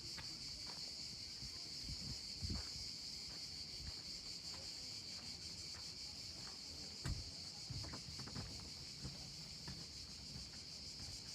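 A steady, high-pitched chorus of insects, with irregular footsteps thudding and scuffing underneath, two of them louder about two and a half and seven seconds in.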